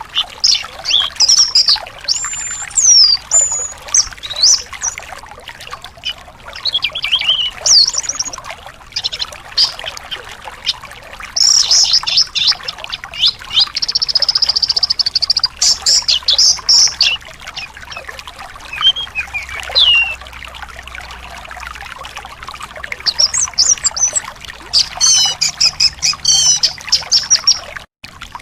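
A thrush (anis) singing a varied string of whistles, chirps and fast trills over a steady trickle of water.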